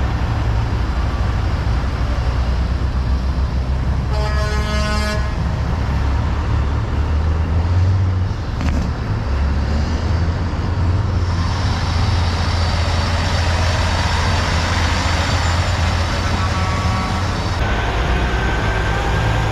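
Diesel truck engine running steadily, with a short horn toot about four seconds in.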